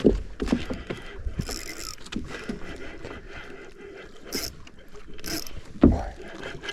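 Saltwater fishing reel being cranked in while an angler fights a hooked fish, probably a giant trevally. A few sharp knocks sound over it, the loudest right at the start and another near the end.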